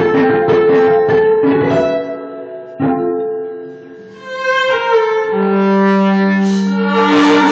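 Live instrumental music on violin: quick plucked pizzicato notes at first, then, after a brief lull, long sustained bowed notes.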